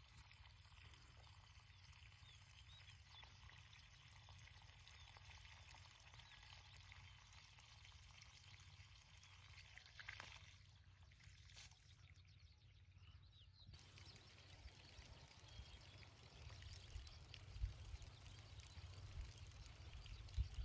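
Near silence: a faint steady low rumble with light hiss, room or outdoor background tone.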